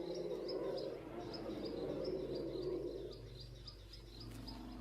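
Small bird chirping, short high calls repeated about three a second, over a louder, lower drawn-out sound that fades about three seconds in and comes back near the end.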